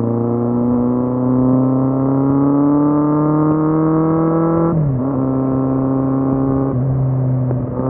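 Kawasaki Z750's inline-four engine pulling under acceleration, its pitch climbing slowly, then dropping sharply at an upshift about five seconds in and stepping again near the end.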